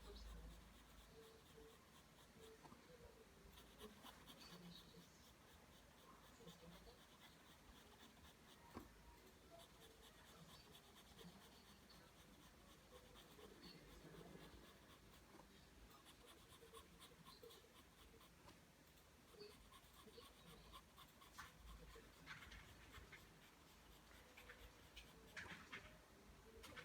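Faint pencil strokes scratching on paper as lines are drawn, one short stroke after another.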